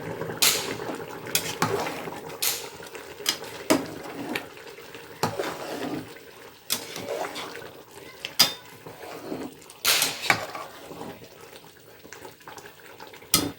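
Metal cookware clinking and scraping in irregular strokes as a pot of half-cooked chicken biryani rice is uncovered and stirred with a utensil.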